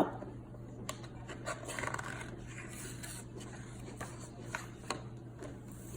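Quiet handling of a paper picture book: soft rubbing and scraping with a few light clicks, over a low steady hum.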